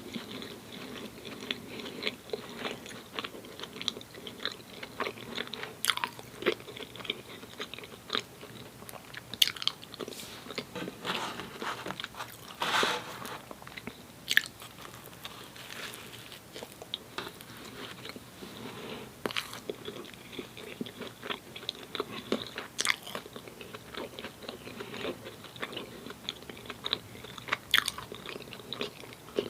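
Close-miked eating of soft frosted doughnuts: biting and chewing with frequent wet mouth smacks and clicks, in an irregular stream with a longer noisy patch a little before halfway.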